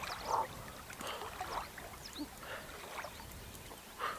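Water splashing and lapping in short, irregular bursts as a person wades into cold loch water.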